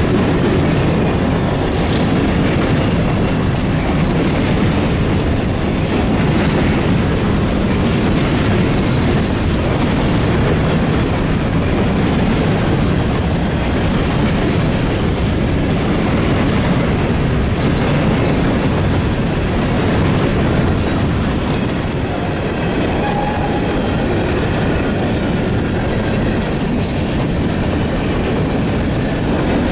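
Freight train cars rolling steadily past, a continuous rumble with the wheels clacking over rail joints.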